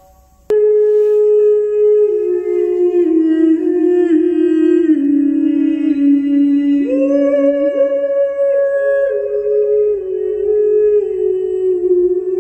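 Music played back through Bose 301V loudspeakers driven by a Yamaha RX-V496RDS receiver. After a near-quiet pause, a slow melody of long held notes starts abruptly about half a second in; it steps down in pitch, then leaps back up.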